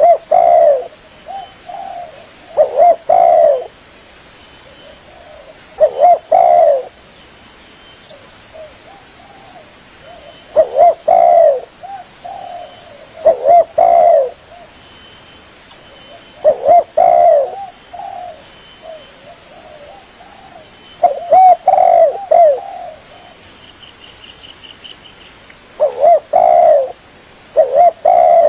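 Spotted dove (tekukur) cooing: a recorded song used as a lure, with short phrases of a few low coo notes repeated about every three to five seconds, roughly nine times.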